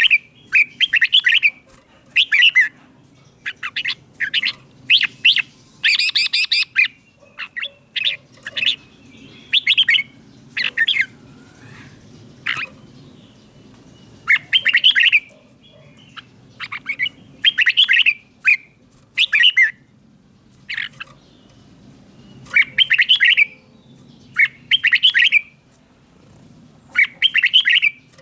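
Red-whiskered bulbul singing loud, short, chattering song phrases again and again, one every second or two with brief pauses between, in the repeating 'double' (beul) style that is prized in Thai caged-bulbul singing.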